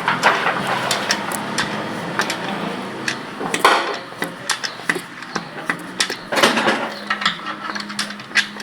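Irregular metal clinks and taps of hand tools working on a tractor engine's valve rockers while the valve clearances are checked, with a couple of louder rattling bursts.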